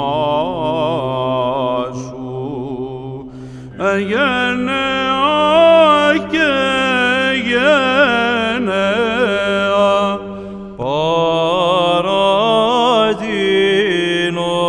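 Byzantine chant sung by a group of chanters: an ornate melody that glides and turns, held over a steady low drone (the ison). Phrases break off and start again about four and eleven seconds in.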